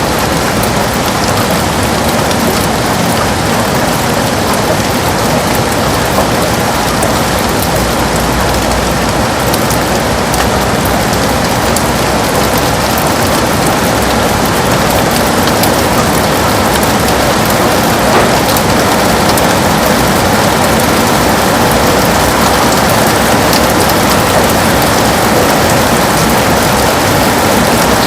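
Heavy rain pouring steadily against a window: a dense, even hiss with a low rumble underneath.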